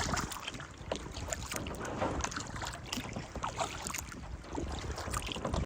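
Water lapping and splashing around a canoe under way, with wind on the microphone.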